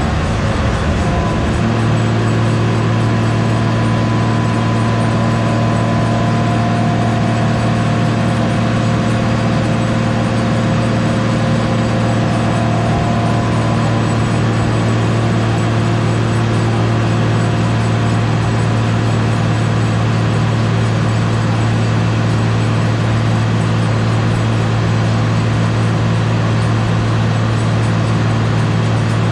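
Boosted BMW S50 inline-six in an E36 running on a chassis dyno. After a shift in pitch about a second in, it holds one steady engine speed as a constant drone, with no rising sweep of a full-throttle pull.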